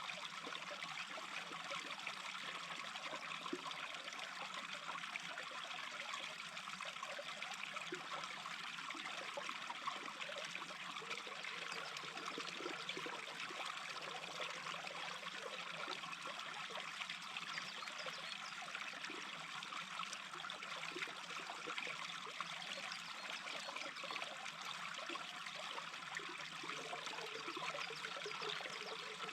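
A small brook babbling: steady trickling and splashing of shallow running water, with no changes or distinct events.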